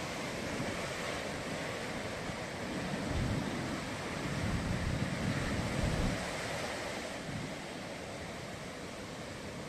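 Ocean surf: a continuous wash of breaking waves that swells louder between about three and six seconds in, with wind rumbling on the microphone.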